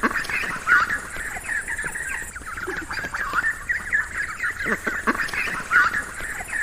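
A flock of ducks calling, many short quacks overlapping into a continuous chatter.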